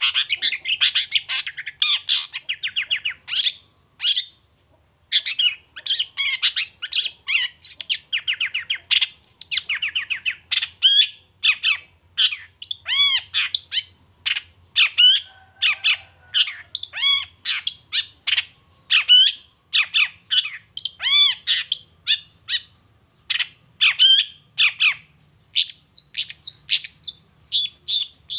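Long-tailed shrike (cendet) singing at length: a fast, unbroken run of sharp chattering and whistled notes, some arching up and down in pitch, with a brief pause about four seconds in.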